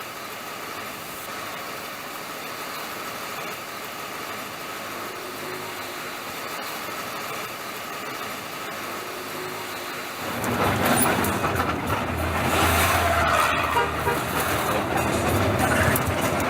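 Steady background hum of a road vehicle, then about ten seconds in a large vehicle's engine comes in much louder with a low rumble that keeps running.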